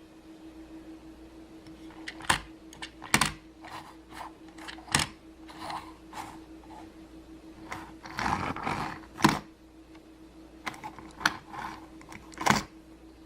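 Irregular clicks and knocks of small objects being handled, with a short rustle about eight seconds in, over a steady low hum.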